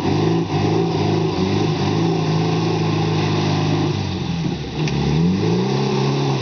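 Suzuki Samurai's four-cylinder engine revving under load as it drives through deep muddy water, with its tyres churning the water. The revs dip about four seconds in, then climb again.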